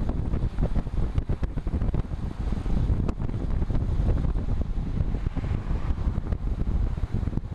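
Wind buffeting the microphone of a camera riding on a moving road bicycle, a steady low rumble.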